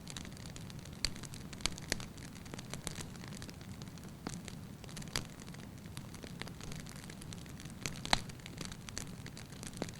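Wood fire burning in a fireplace: a steady low rumble of flames with irregular sharp crackles and pops from the logs, the loudest pops about a second in, near two seconds and just after eight seconds.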